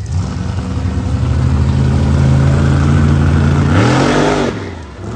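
Monster truck engine revving hard: it climbs, holds a high steady note, then gives a couple of quick rev blips about four seconds in before dropping off.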